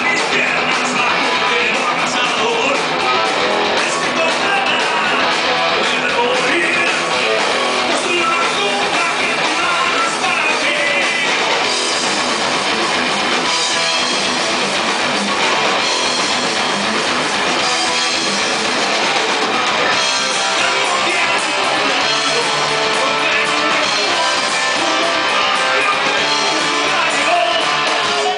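A rock band playing live: electric guitars and a drum kit, with singing, at a steady loud level.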